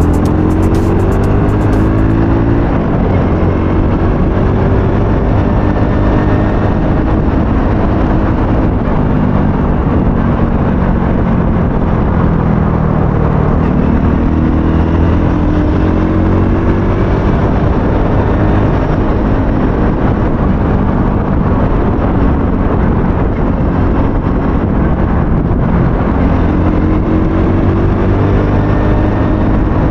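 Aveta Ranger 110's small single-cylinder engine under way, its pitch rising and falling several times as the bike speeds up and eases off. Steady wind rush on the helmet-mounted camera's microphone runs underneath.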